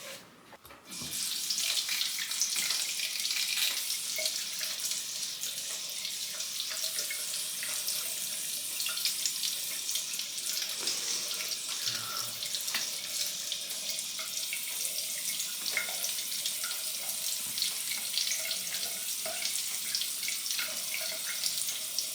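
Water running from a tap into a sink, switched on about a second in and running steadily, with small splashes and knocks.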